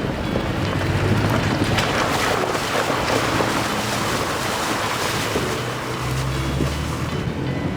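Off-road vehicle fording a river crossing: water rushing and splashing against it with the engine running low underneath.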